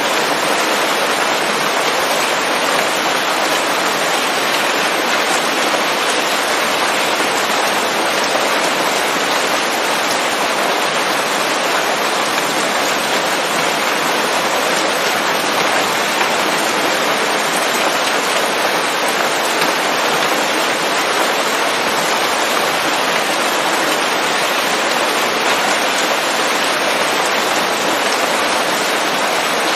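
Steady rain falling on forest leaves, an even dense patter.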